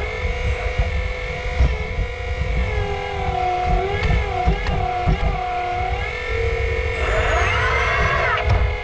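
RC excavator's hydraulic pump running with a steady whine whose pitch dips and wavers as the hydraulics take load about halfway through.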